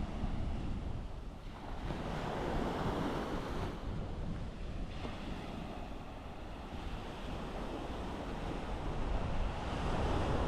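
Sea surf washing onto a sandy beach, swelling about two seconds in and again near the end, with wind rumbling on the microphone.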